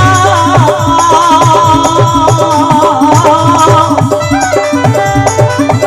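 Live Indian folk devotional music: a wavering melodic lead line over a steady hand-drum beat and jingling rattle percussion, played between the singer's lines.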